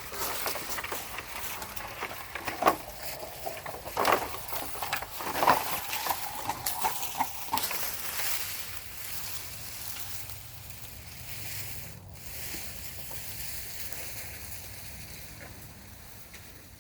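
Irregular rustling with sharp cracks and knocks for the first half, then a quieter steady background that fades out at the end.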